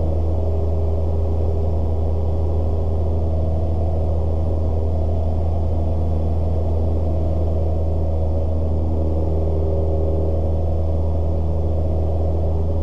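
Cessna 172S's four-cylinder Lycoming IO-360 engine and propeller droning steadily in cruise, heard inside the cockpit as a constant low hum with a few steady tones above it.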